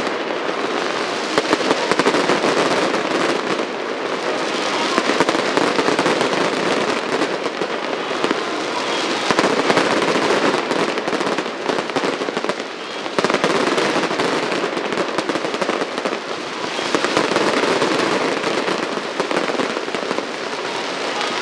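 Aerial fireworks in a dense barrage: many shells bursting at once, with a continuous crackle and rapid overlapping bangs, swelling and easing slightly every few seconds.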